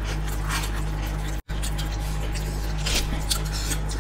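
Soft wet chewing and mouth sounds of people eating steamed veg momos, with scattered small clicks, over a steady low hum. The sound cuts out for an instant about a second and a half in.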